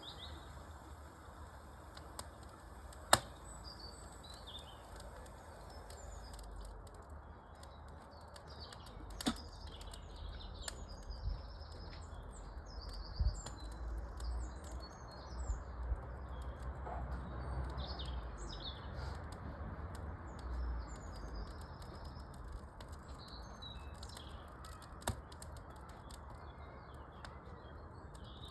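Wood fire in a fireplace crackling with a few sharp pops, the loudest about three seconds in, while birds chirp throughout.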